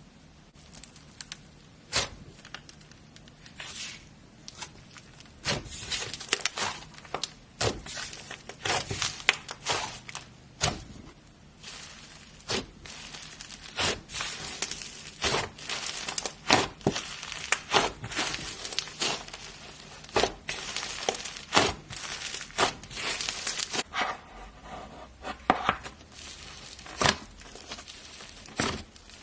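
Slime being squeezed, poked and stretched by hand, giving irregular sharp pops and clicks with short squelchy rustles between them.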